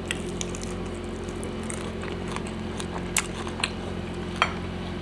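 Someone chewing a mouthful of food, with a few scattered sharp clicks. A steady low hum runs underneath.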